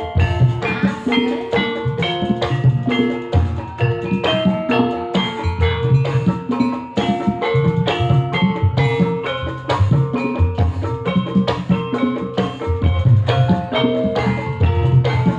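Live gamelan music for an ebeg horse-trance dance: struck metal keyed instruments ringing out a fast, repeating pattern of notes over kendang hand drums, played through a PA system.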